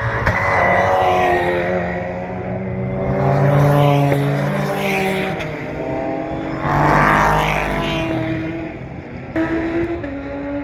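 Racing car engines passing at speed on the circuit, swelling loudest about four seconds in and again about seven seconds in.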